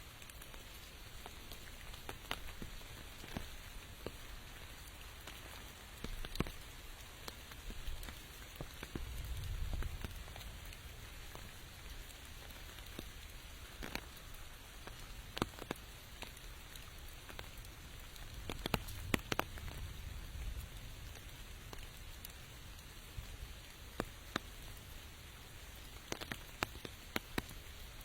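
Rain falling as a steady hiss, with many sharp single drops striking close by at irregular moments. A low rumble swells twice, about a third of the way in and again just past halfway.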